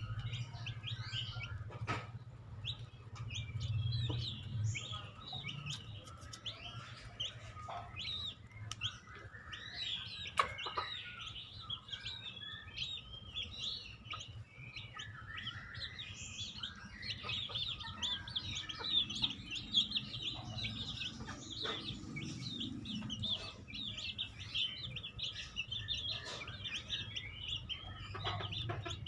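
Chickens clucking, with many short high chirps running through, over a low steady hum.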